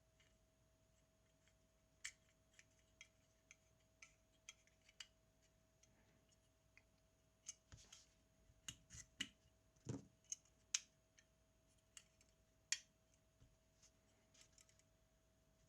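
Faint, irregular sharp clicks and small taps of tools and metal parts being handled during repair of a Zenit TTL film camera, over a steady low hum.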